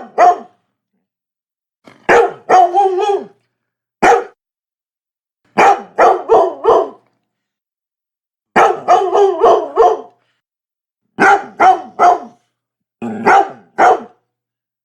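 Labrador barking in repeated bursts of two to five quick barks, with silence between the bursts.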